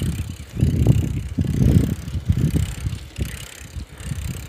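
Bicycle ridden at speed, with an uneven low rumble and irregular rattling knocks from the bike, which the rider puts down to something being messed up in it.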